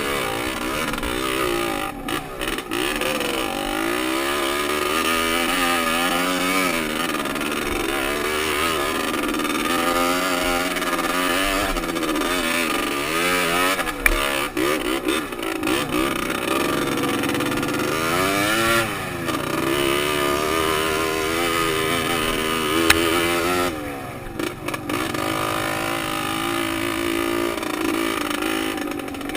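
Off-road motorcycle engine revving up and down as it is ridden on a dirt trail, its pitch rising and falling again and again. Two sharp knocks stand out, one about halfway through and one a little later.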